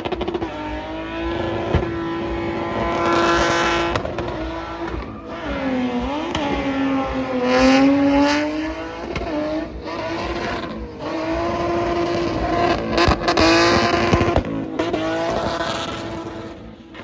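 A car engine held at high revs, its pitch sagging about six seconds in and climbing back about two seconds later, with tyre squeal, as in a burnout or drift with the tyres spinning. The engine note breaks off briefly several times.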